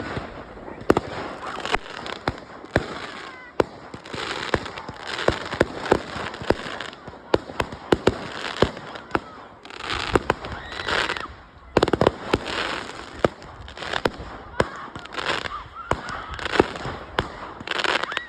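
Fireworks display: sharp bangs from bursting shells in quick, irregular succession, with waves of crackle and hiss between them.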